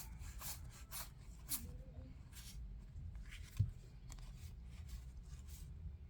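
Faint rustling and soft clicks of Yu-Gi-Oh! trading cards being handled and sorted, with one soft thump about three and a half seconds in.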